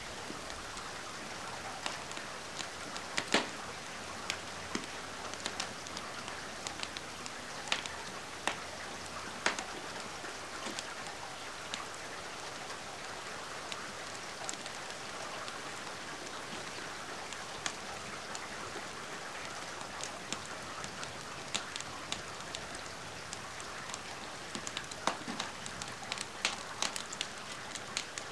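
Steady rain hiss mixed with a wood fire crackling: sharp pops and snaps scattered through, more frequent near the end.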